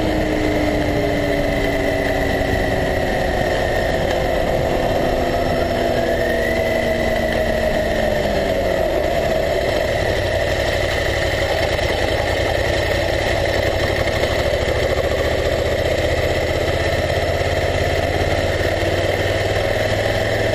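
Motorcycle engine dropping in pitch over the first several seconds as the bike slows almost to a stop, then running steadily at low revs.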